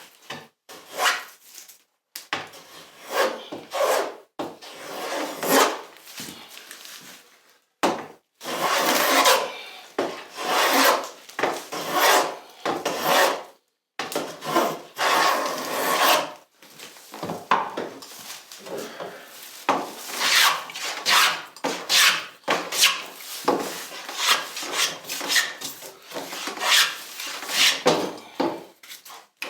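Hand tool working wood in a series of scraping strokes of uneven length, shaping a moulding profile, with short pauses between strokes and one longer unbroken run about a third of the way in.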